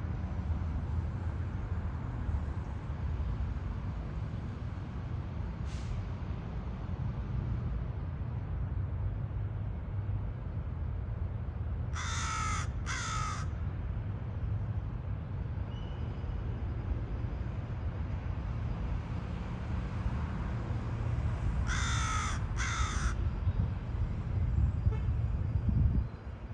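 Crow cawing: two harsh caws in quick succession about halfway through, and another pair about ten seconds later, over a steady low rumble.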